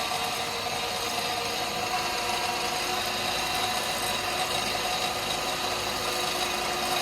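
Wood lathe running at high speed, around 3,000 RPM, spinning a pen blank: a steady machine whine with several held tones over a hiss. It carries a little extra noise that the turner has decided to put up with.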